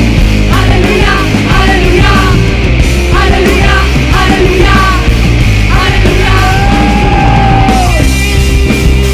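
Worship band playing loud rock-style music: a run of short repeated melodic notes over a heavy, steady low end, then one long held note starting about six and a half seconds in that bends downward near the end.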